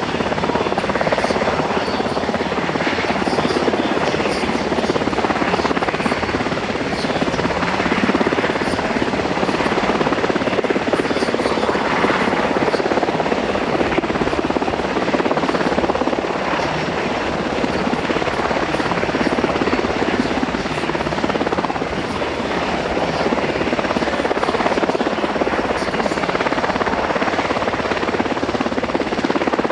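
US Coast Guard MH-60T Jayhawk helicopter hovering, its rotor and turbine noise loud and steady throughout.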